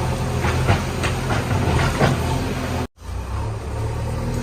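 JCB 3DX backhoe loader's diesel engine running steadily, with several short, sharp noises during its first two seconds. The sound drops out for an instant just before three seconds in, then the engine carries on.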